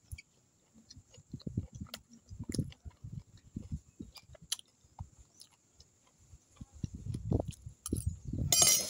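A person chewing a mouthful of rice and meat close to the microphone, with a spoon clicking and scraping on a plate now and then. A short, louder noisy rush comes near the end.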